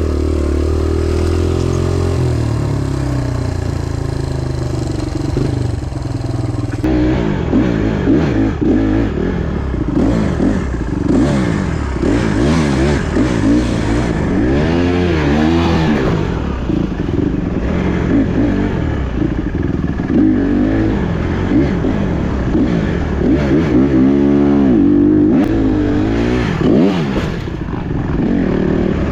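Small off-road motorcycle's single-cylinder four-stroke engine ridden hard, its pitch rising and falling as the throttle opens and closes. The sound changes abruptly about seven seconds in.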